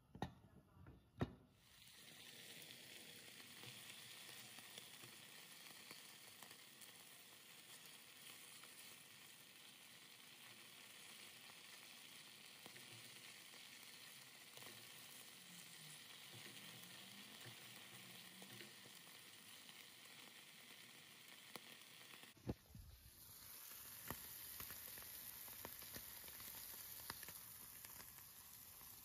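Slices of cheese sizzling steadily as they fry in a hot non-stick pan. There are two sharp clicks near the start.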